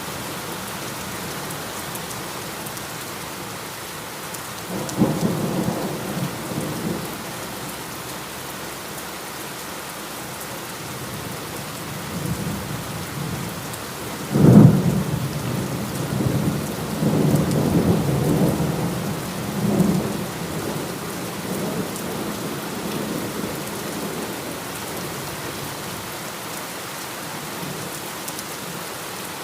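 Steady heavy rain with thunder: a first rumble about five seconds in, then a sharp crack about halfway through that rolls on in rumbles for several seconds before fading back to the rain.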